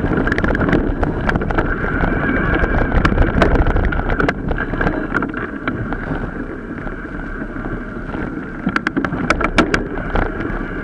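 Mountain bike ridden off-road, heard from a bike-mounted camera: wind rushing over the microphone, with the bike rattling and clicking over rough ground in quick runs of clicks, thickest in the middle and again near the end.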